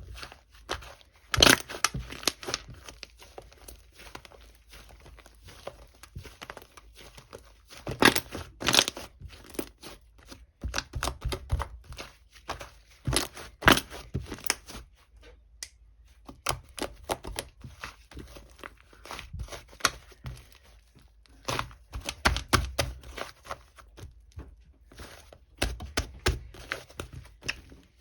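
Slime being worked by hand, giving irregular sticky clicks and crackles in clusters, with quieter stretches between them.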